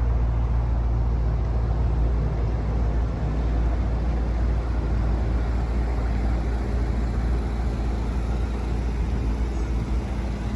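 Twin-turbo V8 of a Maserati Quattroporte GTS idling steadily with a low, even rumble.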